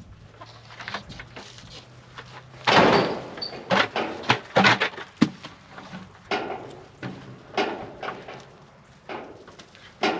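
A series of sharp, irregular knocks and clatters, like something being handled or banged about, the loudest about three seconds in, with a faint low hum before it.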